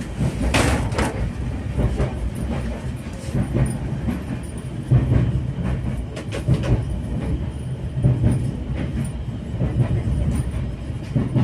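Passenger train running along the track, heard from inside the carriage: a steady low rumble with the wheels clattering over the rails, swelling and easing unevenly, and a brief rushing noise about half a second in.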